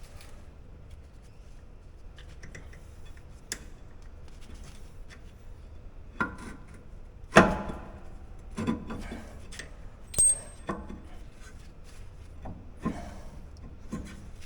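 Metal clinks and knocks from hand tools and brake caliper parts as a dry, sticking caliper glide pin is worked out: several separate knocks, the loudest about seven seconds in, and one with a short high ring about ten seconds in.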